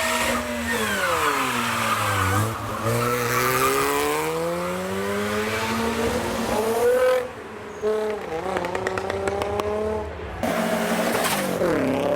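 A modified car's engine revving hard, its pitch dropping and climbing again several times as it accelerates away, with tire noise. A run of sharp crackles comes about two-thirds of the way through.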